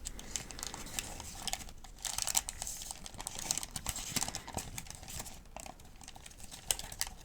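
Paper crinkling and rustling as a pharmacy medication guide is handled, with many small ticks and crackles, busiest about two to four seconds in.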